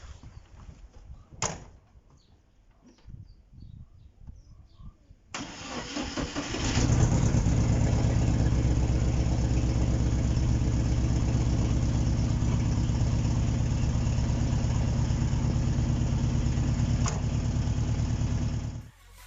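A large engine comes in abruptly about five seconds in, builds for a second or two, then runs loud and steady before cutting off just before the end. Before it there is a quiet stretch with one sharp click.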